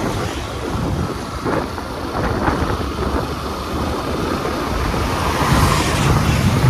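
Wind rushing over the microphone of a moving motorcycle, with engine and road noise underneath as it rides along a highway.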